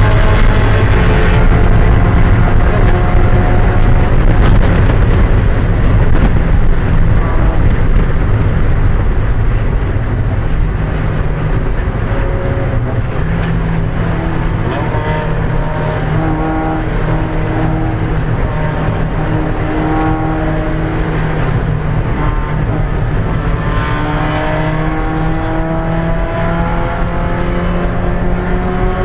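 1995 Mazda Miata's 1.8-litre four-cylinder engine running hard under race load. It is loud at full throttle, eases off about ten seconds in, then its revs climb steadily again near the end as it accelerates.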